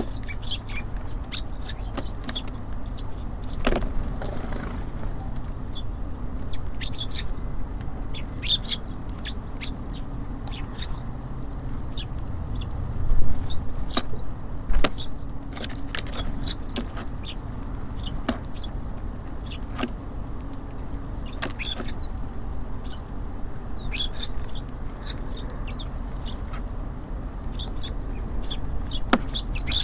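Small birds at a feeder giving short, high chirps scattered throughout, over a steady low rumble of city traffic. The rumble swells louder for a moment about 13 seconds in.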